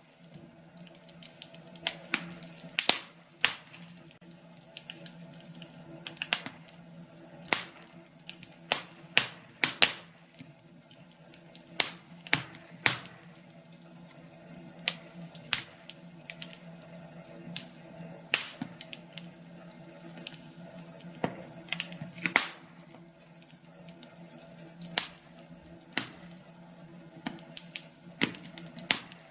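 Wood fire crackling in a fireplace: irregular sharp pops and snaps from the burning logs over a steady low hum.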